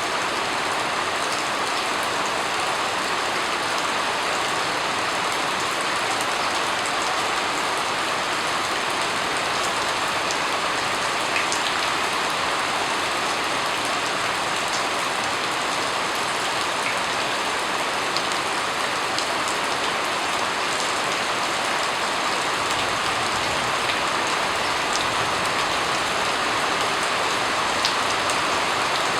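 Steady rain falling on a surface, an even hiss with scattered drips and ticks of single drops.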